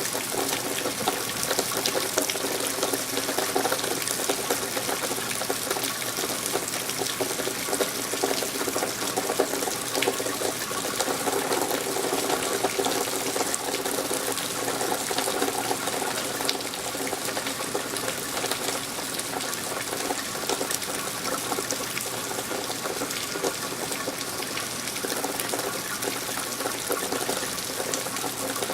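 Steady rain falling, a continuous wash of water with many small drop hits.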